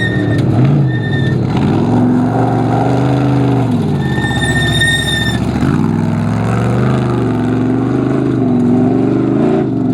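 Off-road race car's engine running hard, its pitch rising and falling repeatedly as it is revved up and down. A steady high-pitched squeal comes in briefly about a second in and again for over a second about four seconds in.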